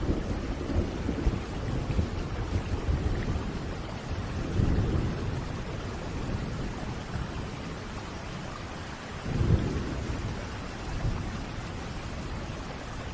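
Steady rain hissing, with low rolls of thunder rumbling in and out, the loudest about nine and a half seconds in.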